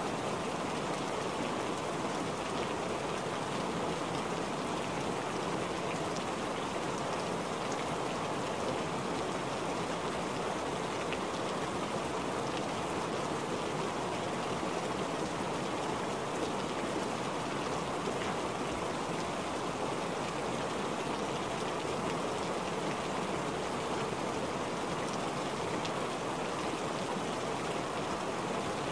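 Steady rain falling on a wet surface: an even hiss of many drops, with a few separate drop ticks standing out now and then.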